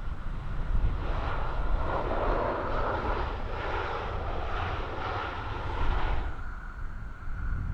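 Aircraft engines passing, a broad rushing sound that swells about a second and a half in and fades out a little after six seconds. A steady low rumble lies under it.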